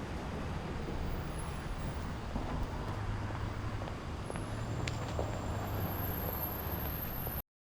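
Steady low rumble of background noise, with a few faint high ticks and thin tones, cutting off suddenly near the end.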